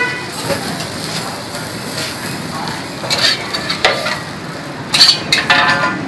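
Pancake batter sizzling in a wok, with a metal spatula clanking and scraping against the pan a few times, most sharply about three and five seconds in.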